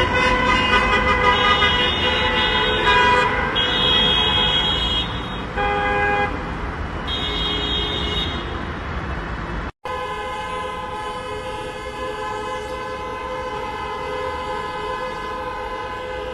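Many car horns honking at once in a mass protest honk, their overlapping tones starting and stopping. After a brief break just before the middle, the horns hold in one long, steady blare.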